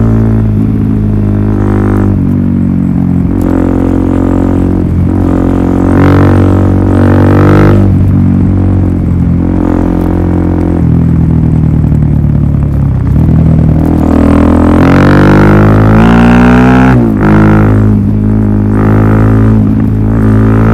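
Suzuki DR-Z400SM single-cylinder four-stroke engine running through a Yoshimura full exhaust system, loud, its pitch stepping up and down and rising several times as the revs change.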